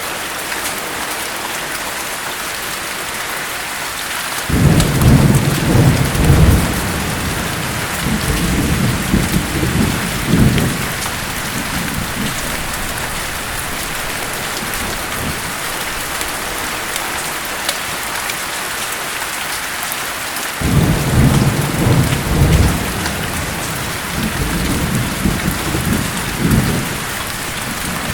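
Steady heavy rain with thunder: two long low rolling rumbles, one starting about four seconds in and another about twenty seconds in, each lasting around six seconds.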